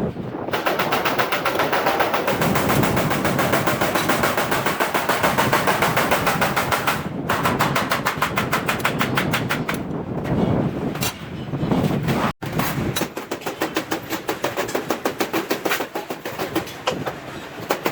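Stainless steel sheet being struck in a rapid, even rhythm of several metallic blows a second, with brief breaks about 7 and 12 seconds in.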